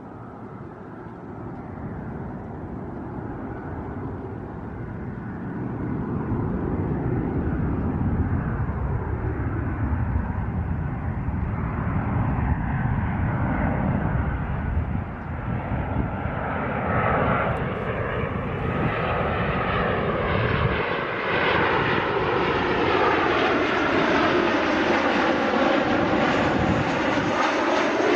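Jet airliner flying low overhead, its engine noise building over the first several seconds and then staying loud, with sweeping rises and falls in tone as it passes.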